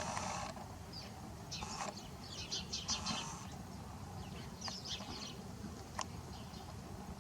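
Faint outdoor birdsong: short high chirps in several bunches. A drawn-out animal call cuts off about half a second in, and there is a sharp click near the end.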